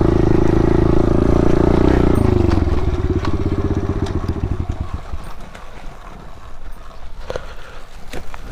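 Pit bike's small single-cylinder engine running steadily, then dropping in pitch about two seconds in to a slow putter that dies away about five seconds in. A few light clicks and knocks follow.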